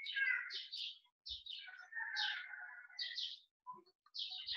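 Small birds chirping in a quick run of short, high notes.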